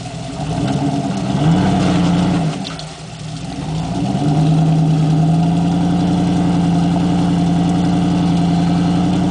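Jeep Grand Cherokee ZJ engine under load while rock crawling. The revs rise, ease off around three seconds in, then climb again about four seconds in and hold steady.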